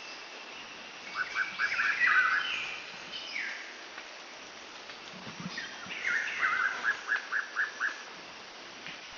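Birds singing: two bursts of song, one about a second in and one about six seconds in, each a quick run of repeated chirping notes, over a steady hiss.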